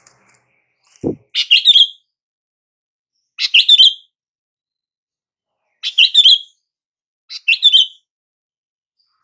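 Sooty-headed bulbul (kutilang) singing four short, bubbling phrases a couple of seconds apart. There is a short low thump about a second in.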